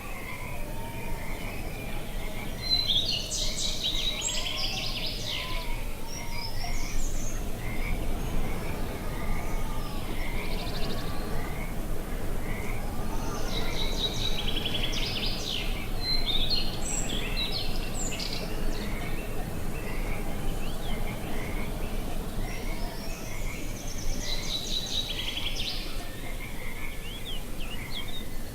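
Outdoor nature ambience: birds singing in three bursts, near the start, in the middle and near the end, over a steady chorus of short calls repeated about twice a second and a low, steady background noise.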